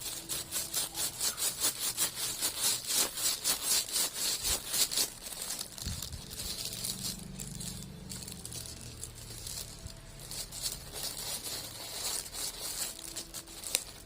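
A knife sawing back and forth through a thick bar of handmade soap: rapid, even rasping strokes, about five a second, for the first five seconds, then slower, quieter scraping as the blade works down through the bar, with a sharp click near the end.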